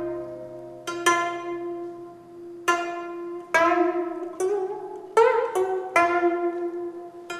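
Steel-string gayageum playing slow, spaced plucked notes, each ringing and fading, with some notes bent and shaken in pitch in the Namdo style.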